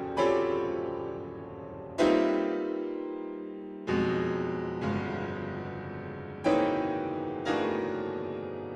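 Slow solo piano music: sustained chords struck about every one to two seconds, each left to ring and fade before the next.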